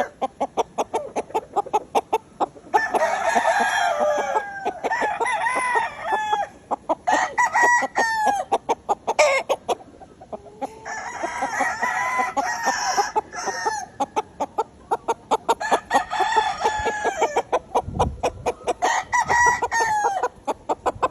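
Several gamefowl roosters crowing in turn, their crows overlapping in bunches every few seconds, over a steady run of short sharp clicks.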